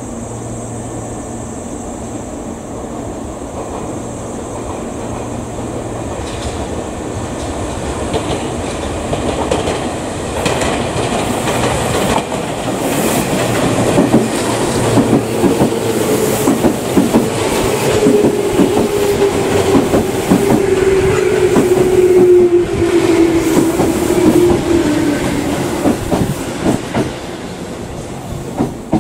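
Tobu 10050-series electric commuter train pulling out and passing close by, its wheels clattering over the rail joints. A steady tone slides down in pitch through the loudest part, and the train fades near the end.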